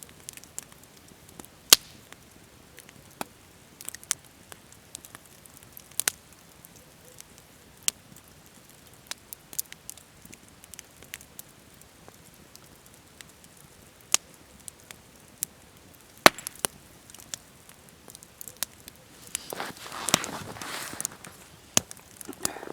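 Wood campfire crackling: sharp single pops at irregular intervals of a second or two, between stretches where it burns quietly, with a denser run of crackling near the end.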